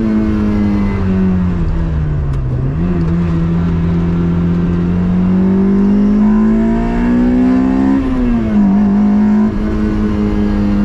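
Third-generation Toyota MR2's swapped-in 2ZZ 1.8-litre four-cylinder engine running hard at high revs. The pitch falls about two seconds in and jumps back up, climbs slowly through the middle, then drops sharply about eight seconds in, as with gear changes.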